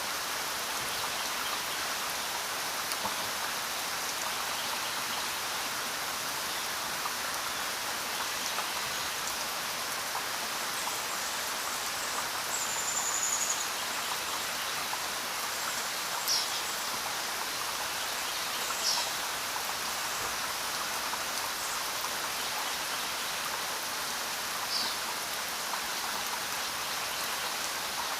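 Steady rainfall, an even hiss of drops with no letup. A few brief high chirps sound over it near the middle and toward the end.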